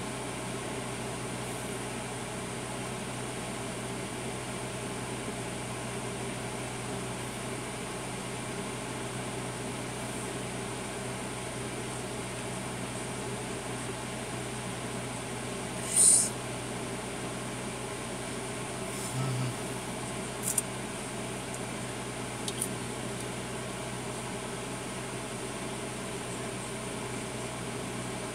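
Steady hum inside a truck cab with the air conditioning running. A sharp click comes about sixteen seconds in, and a few fainter clicks follow a few seconds later.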